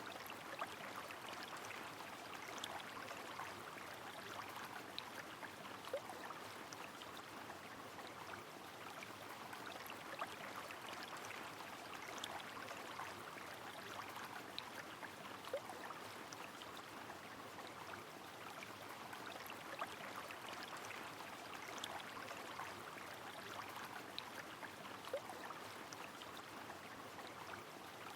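Steady rush of flowing river water mixed with rain, with scattered patters of drops and an occasional sharper drip every few seconds.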